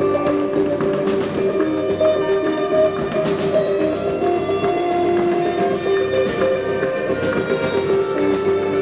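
Live instrumental experimental music: held tones that shift pitch in the middle register over a dense texture of quick clicks and taps.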